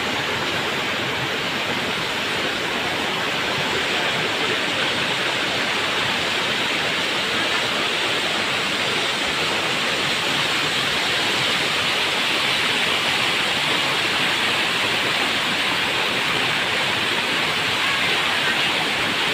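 River water rushing steadily over its bed, a continuous loud wash of flowing water.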